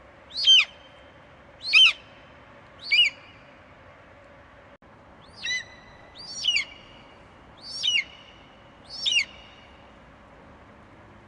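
An eagle giving short, high screeches that slide steeply down in pitch, about one every second and a quarter: three calls, a pause of about two seconds, then four more. A faint steady hum runs underneath.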